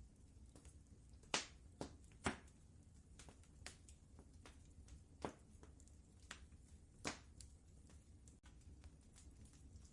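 Wood fire crackling in a fireplace: irregular sharp snaps and pops, with a few louder ones, two close together about a second and a half in and another about seven seconds in, over a faint low rumble.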